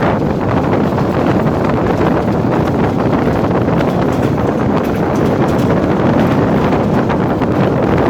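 Passenger train running, heard from on board: a steady rumble of the train on the track with wind buffeting the microphone.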